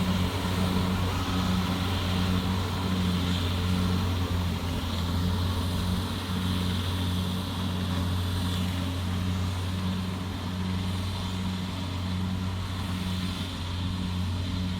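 Diesel engine of a farm machine, a combine harvester or tractor, running steadily as it drives through a wet, boggy rice field. It is a continuous low drone with a slow, even beat about once a second.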